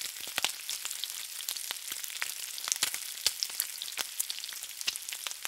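Food frying in hot oil: a steady sizzle with many irregular pops and crackles.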